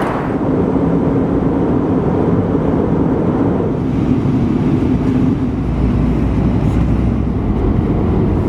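Steady running noise of a vehicle heard from inside, an engine drone with road or track rumble. The low rumble grows deeper a little past halfway through.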